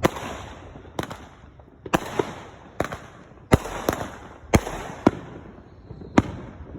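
Fireworks going off: about ten sharp bangs, roughly one a second with some close pairs, each trailed by a crackling hiss.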